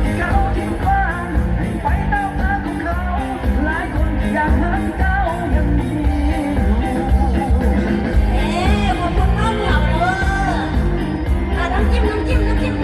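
Live luk thung band music with a woman singing a wavering, ornamented melody over a steady bass-heavy beat.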